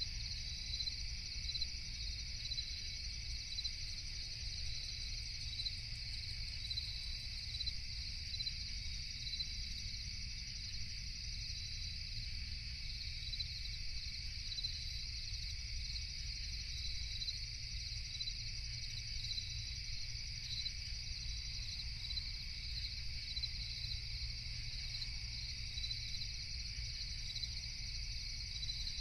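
Night chorus of crickets chirping continuously in a steady high trill with evenly repeating pulses, over a steady low rumble.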